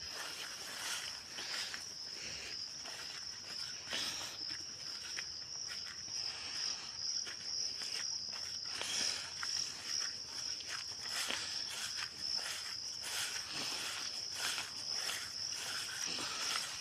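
Insects chirring in a steady, high-pitched trill, with scattered short rustles.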